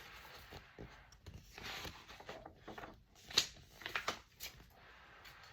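Faint rustling and a few soft taps, handling noise like a book's pages or the reader's hands moving.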